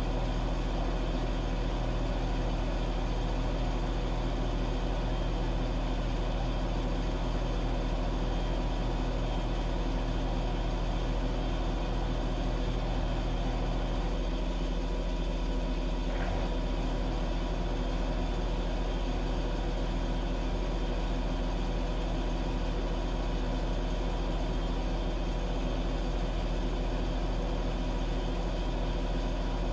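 Washing machine running: a steady motor hum with a whirring drone. About halfway through, part of the low hum drops away, and a faint click follows a couple of seconds later.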